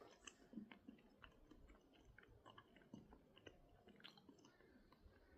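Near silence, with faint irregular clicks and soft crackles close to the microphone.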